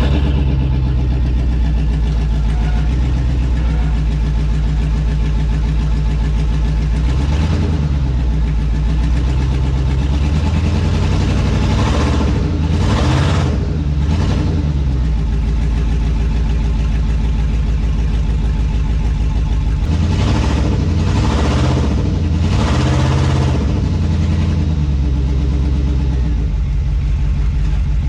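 A 2002 2500HD pickup's gas V8 running, revved up and let back down several times while in gear as the truck fails to move off: the owner suspects low transmission fluid.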